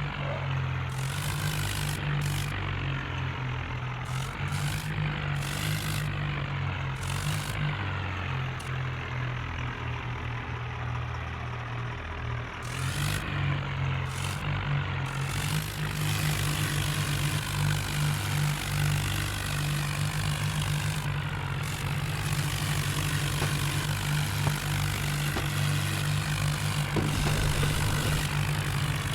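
Heavy diesel vehicle engine running steadily, a little louder from about halfway through.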